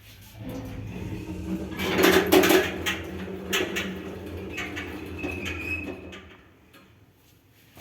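ShchLZ elevator from 2009 running with a strong, steady hum. A burst of loud clattering and knocks comes about two seconds in, and the hum stops about six seconds in.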